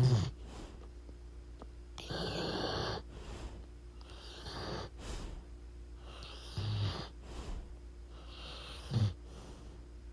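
Sleeping dog snoring: a wheezy breath about every two seconds, several with a short low snort.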